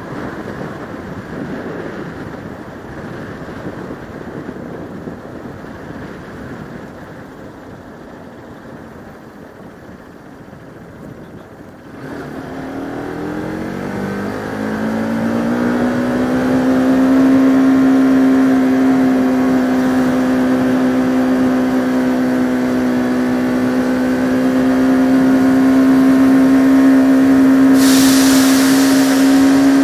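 Bajaj Pulsar RS200 single-cylinder motorcycle engine heard from a helmet camera while riding. For the first dozen seconds, wind noise covers a quiet engine. About 12 s in, the engine note rises as the bike accelerates, then settles into a steady drone. A brief rush of hiss comes near the end.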